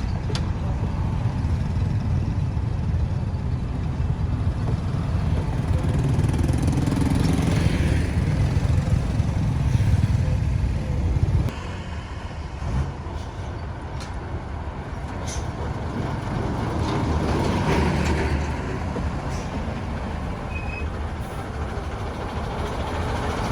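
Road traffic: motor vehicles passing with a steady low engine and tyre rumble, louder in the first half and dropping off suddenly about halfway through.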